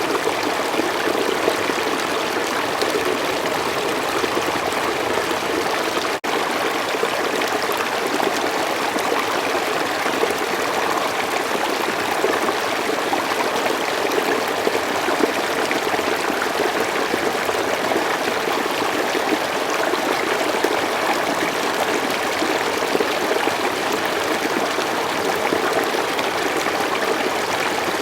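A slow forest stream running and trickling steadily, with one momentary break about six seconds in.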